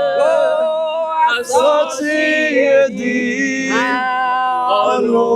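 Several voices, men and women, singing a song in Twi together in harmony, with long held notes.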